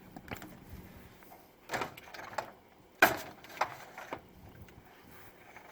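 A few separate light knocks and clatters, the loudest about three seconds in, of a dishwasher's door and racks being handled.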